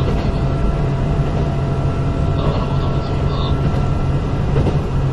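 Interior running sound of a Kintetsu 8000-series electric train car: steady rumble and hum of the motors and wheels on the rails while the train runs along the line.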